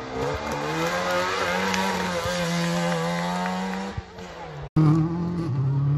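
Rally car engine running under load, its note climbing slowly in pitch for about four seconds. The sound cuts off abruptly about three-quarters of the way through, and a second steady engine note follows.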